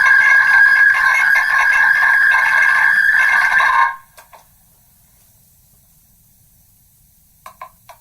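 Megaphone playing back a voice recording that has been re-recorded megaphone-to-megaphone many times, eroded into a shrill, buzzing drone held around one pitch. It cuts off suddenly about halfway, leaving faint hiss, then a few sharp clicks near the end.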